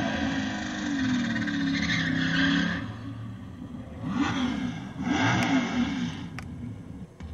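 Car engine revving hard in a burnout, played back over a car's audio system and heard in the cabin; it cuts off about three seconds in. Two shorter noisy passages from the next video clips follow, then a few faint clicks near the end.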